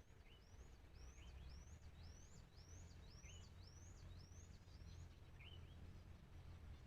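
Faint bird calling a series of high arched whistled notes, about two a second, that stops about five seconds in, with a few short lower chirps between them, over a low steady hum.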